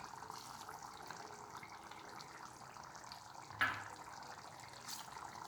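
Faint, steady sizzling and crackling of a tempering frying in hot oil. A single sharp metal clink of a utensil against the pan sounds about three and a half seconds in.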